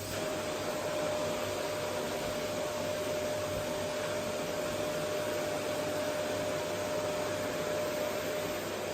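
Vacuum cleaner running steadily: an even rush of airflow with a steady motor whine, which fades out near the end.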